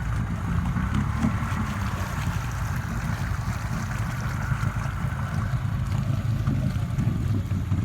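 Off-road vehicle engine running steadily, a low-pitched drone with no clear change in pitch.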